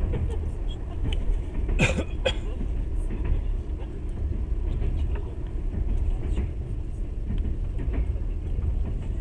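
Passenger train running, heard from inside the carriage: a steady low rumble of wheels on the rails, with two sharp clicks close together about two seconds in.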